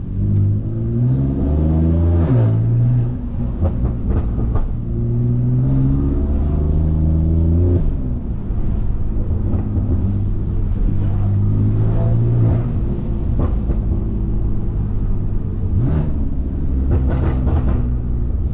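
BMW S55 twin-turbo inline-six in an F80 M3, running through catless downpipes and an open-valved axle-back exhaust while driving. The engine note rises with revs and drops back at gear changes, about two seconds in and again near eight seconds, then holds a steadier cruising drone.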